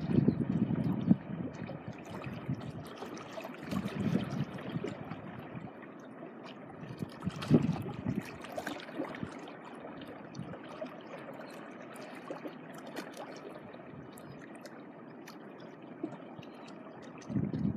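Small sea waves washing and lapping on a beach, a steady wash with a few louder surges at the start, about four and seven seconds in, and at the end.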